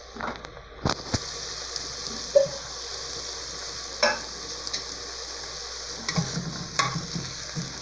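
Chicken, onion and corn frying in an aluminium pressure cooker pot: a steady sizzle, with a spoon knocking against the pot several times and scraping through the food as it is stirred near the end.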